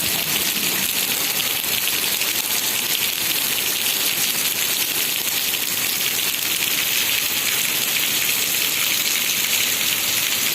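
Heavy rain falling, a steady, dense hiss of downpour.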